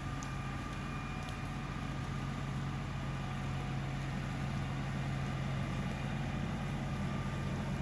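LS XR3135 compact tractor's diesel engine running steadily at a low, even speed.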